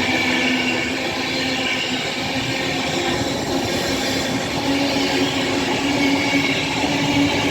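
A train running past close by: a steady, loud rumble of wheels on rail with a steady whine on top.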